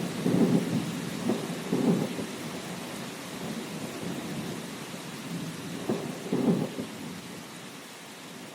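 Thunderstorm: steady rain with rolling rumbles of thunder, swelling about half a second in, again around two seconds, and once more near six and a half seconds, the rain easing a little toward the end.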